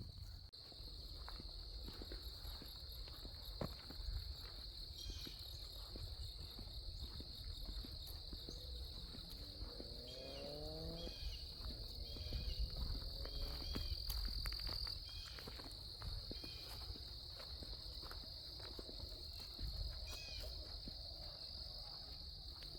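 Steady high-pitched insect chorus, with scattered short bird chirps and the crunch of footsteps on a trail.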